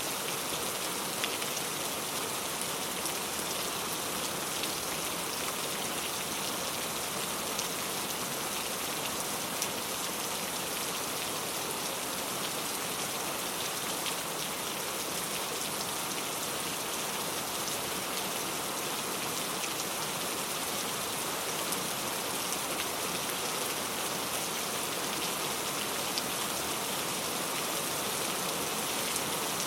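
Heavy rain falling steadily, a dense even hiss with scattered drop impacts standing out here and there.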